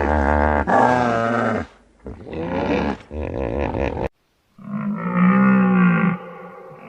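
Animal calls: a run of pitched calls with wavering pitch, then, after a sudden cut, one long low call of about a second and a half.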